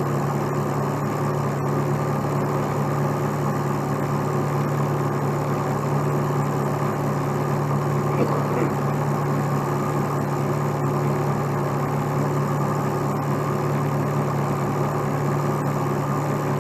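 Heavy tow truck's engine running steadily with a constant low hum.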